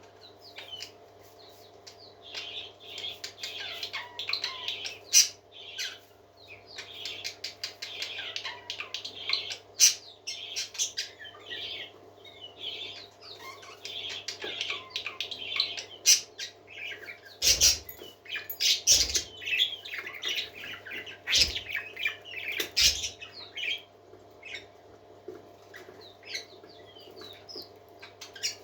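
Parakeets chattering and warbling continuously, with many sharp clicks among the calls. Several louder knocks come in the second half, over a steady low hum.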